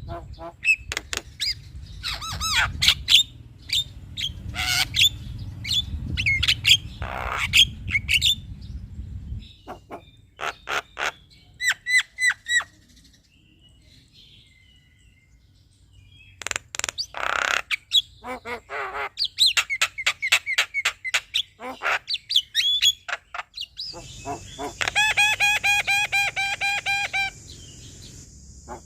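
Male Javan myna singing: a quick string of sharp whistles, clicks and harsh squawks, broken by a pause of a few seconds midway, with a longer drawn-out buzzy note near the end.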